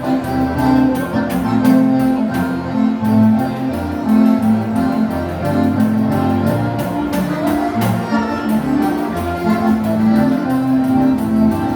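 Live dance band playing an instrumental passage without singing: a sustained melody line over bass and a steady, even beat.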